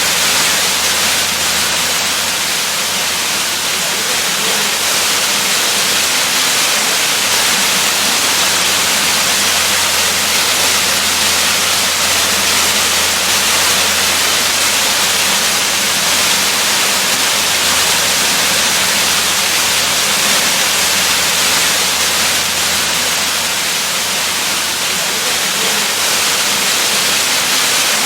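Waterfall, a steady rushing of falling water with no breaks.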